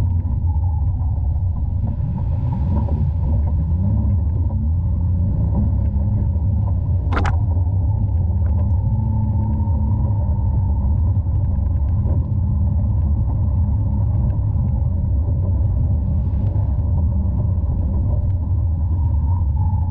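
Off-road side-by-side running with a steady low rumble, heard muffled through a camera microphone whose port is clogged with mud. A single sharp knock comes about seven seconds in.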